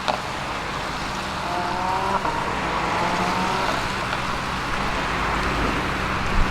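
ABT-tuned Audi RS Q8-R's twin-turbo V8 under way amid a steady rush of road and wind noise, its pitch rising in two short pulls about two and three seconds in.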